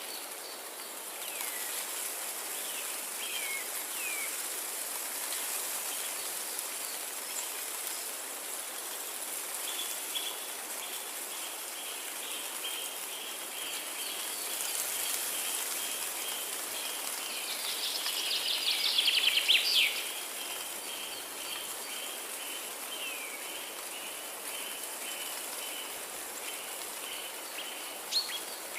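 Forest ambience: birds singing over a steady background hiss and a steady high buzz. A few short down-slurred chirps come in the first few seconds, then a quick run of repeated notes from about a third of the way in, and a louder song burst about two thirds through.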